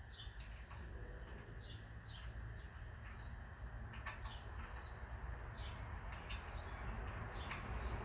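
A small bird chirping over and over, short falling chirps about twice a second, over a steady low background rumble. Now and then there is a faint click.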